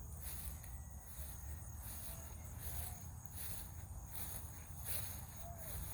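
Faint chorus of insects chirping, a high pulsing buzz repeating a few times a second, over a low rumble.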